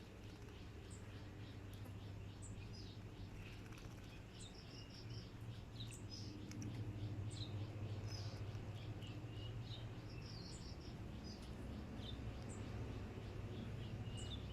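Birds chirping, with many short high calls and a few quick runs of repeated notes, over a steady low hum.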